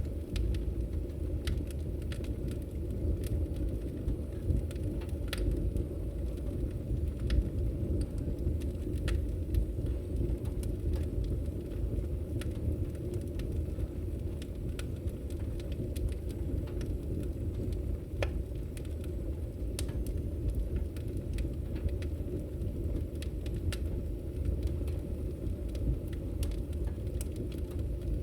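Wood fire crackling in a fireplace: a steady low rumble of the flames with sharp pops and snaps scattered irregularly throughout.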